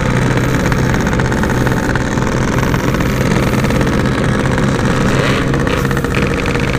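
Yamaha RX-King's 135 cc two-stroke single-cylinder engine running at a steady speed while riding, heard through its standard-style Packing Power exhaust.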